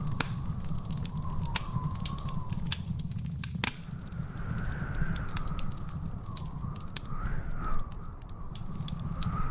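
Wood fire crackling in a fireplace: irregular pops and snaps over a low steady rumble, with one louder snap a little under four seconds in. A thin whistling tone wavers slowly up and down above the crackle.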